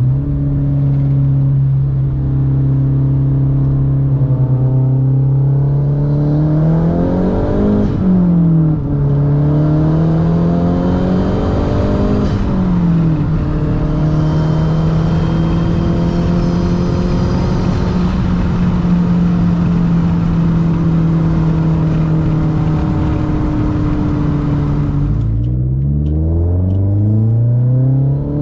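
Straight-piped Mazdaspeed3's turbocharged 2.3-litre four-cylinder under hard acceleration. The engine note climbs steeply to a peak about eight seconds in and again around twelve seconds, dropping sharply after each peak as the car shifts gear. It holds a steady pitch through the long middle stretch, then falls and climbs once more near the end.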